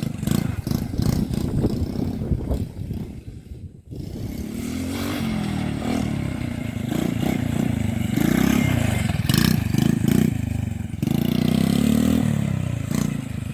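Small petrol engine of a quad bike running while it is driven, its revs falling away briefly a few seconds in, then rising and holding high with a short drop near the end, along with some clattering and scraping.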